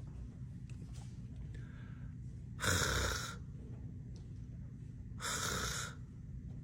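A voice twice pronouncing a voiceless throat sound of the Heiltsuk (Haíɫzaqv) alphabet: a breathy, rasping hiss without a voiced tone, about a second long each time, a little under three seconds apart.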